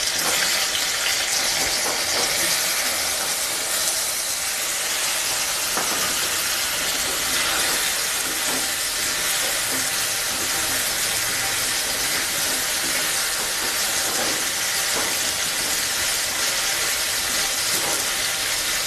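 Turmeric-and-salt-coated paneer cubes sizzling steadily in hot oil in a kadai as more cubes are dropped in.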